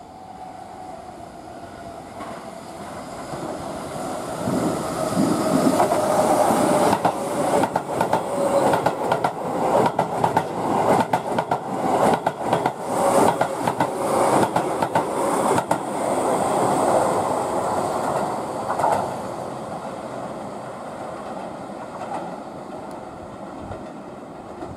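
Keihan 8000-series limited express train passing through a station at speed without stopping: the running noise builds over several seconds, then a long run of rapid clickety-clack from the wheels over the rail joints as the cars go by, fading away near the end.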